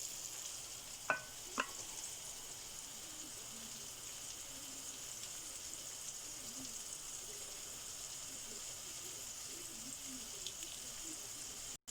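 Flour-coated chicken strips frying in hot oil: a steady sizzle, with two sharp clicks about a second in. The sizzle cuts off suddenly near the end.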